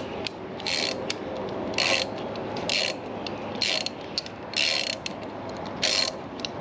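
Socket ratchet clicking in short runs about once a second as it is swung back and forth to back a bolt out of a Briggs & Stratton 18.5 hp mower engine.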